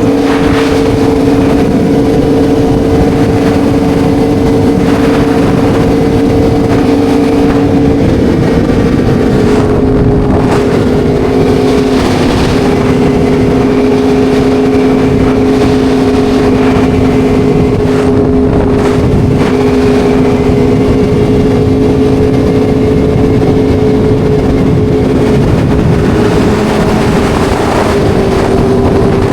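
Motorcycle engine holding a steady drone at cruising speed, its pitch shifting slightly about eight seconds in and again a few seconds later, over a constant rush of wind.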